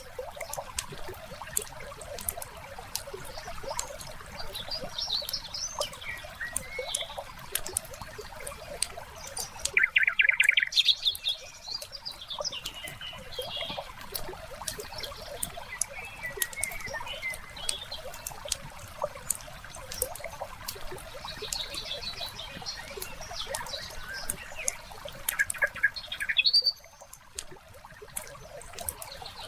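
Layered nature ambience: a wood fire crackling with frequent small pops, over a soft trickle of water. Songbirds chirp now and then, with the loudest call about ten seconds in and another shortly before the end.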